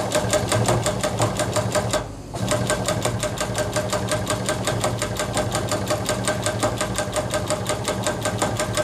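A small machine running with rapid, evenly spaced clicks over a steady low hum, dipping briefly about two seconds in.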